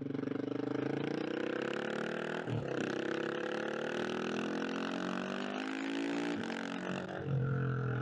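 KTM 690 SMC R single-cylinder engine pulling hard through the gears, its note rising, breaking at a shift about two and a half seconds in and again about six and a half seconds in. It drops to a lower note near the end.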